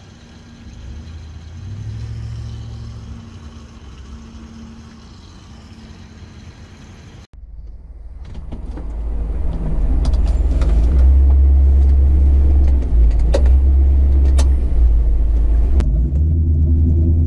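Isuzu NPR's small-block Chevy 350 V8 running through Flowmaster 40 mufflers: a quieter steady stretch, then after a sudden cut the sound builds to a loud, steady low rumble, with a few sharp clicks near the end.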